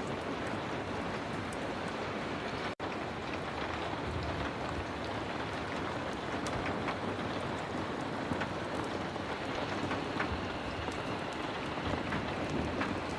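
Heavy rain falling steadily, with scattered faint ticks of drops through it. The sound cuts out for an instant about three seconds in.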